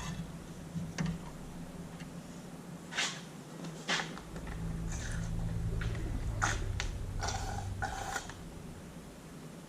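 Scattered clicks, knocks and clinks of hands and tools working on hoses and parts in a car's engine bay, over a low steady hum.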